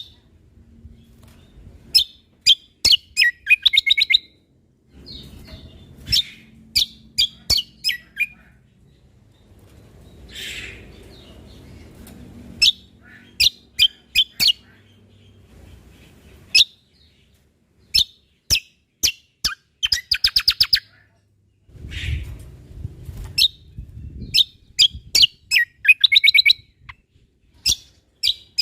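Cucak kombo (kecial kombok) songbird singing: sharp, rapid chirps and fast trilled phrases, repeated in bursts with short pauses between them.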